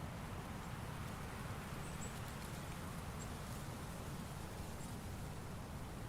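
Steady autumn forest ambience: wind moving through trees and rustling leaves, with a few faint high-pitched chirps scattered through it.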